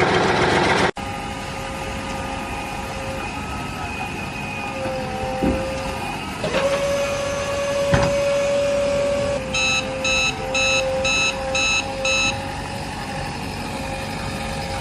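Steady vehicle-like engine hum with a few clicks, then a reversing beeper sounding six times, about two beeps a second.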